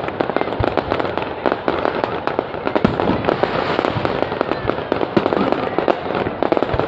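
Fireworks going off: a dense, continuous crackle of many rapid small pops and bangs.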